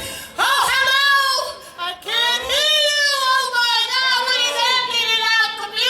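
A high solo voice singing unaccompanied, holding long notes that slide up and down in pitch, with a short break about two seconds in.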